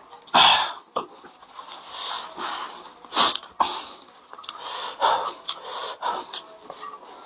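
Close-up mouth and breath sounds of eating spicy food: several sharp, noisy breaths drawn and blown through the mouth between bites, a sign of the food's heat.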